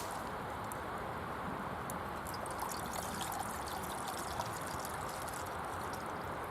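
Steady rush of running water, with scattered faint small clicks.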